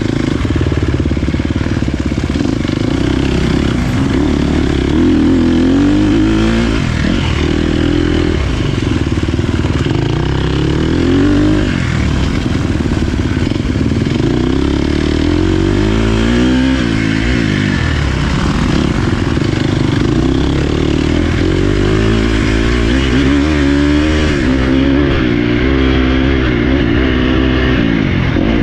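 Dirt bike engine running hard, its pitch rising and falling over and over as the throttle opens and closes.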